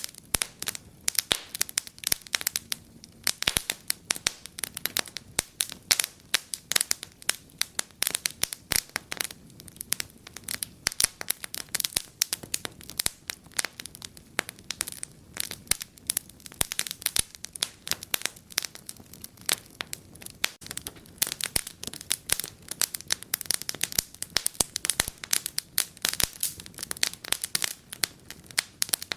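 Wood fire crackling, with a dense, irregular run of sharp pops and snaps over a low steady hiss.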